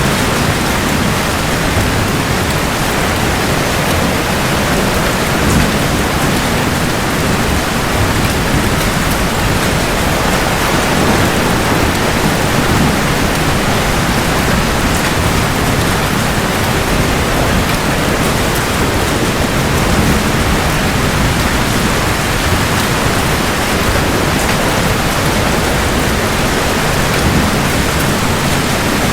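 Steady rain pouring in a thunderstorm, an even hiss with a low thunder rumble underneath at times.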